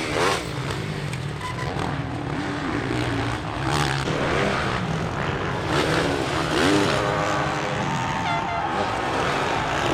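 Motocross bikes' engines revving hard and easing off again and again, their pitch rising and falling through gear changes and corners.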